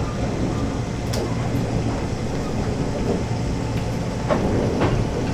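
Electric train sound: a steady low rumble with a few sharp clicks.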